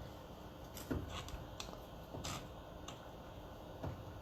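Faint, irregular small clicks and taps of a connector and its pins being handled and lined up by hand.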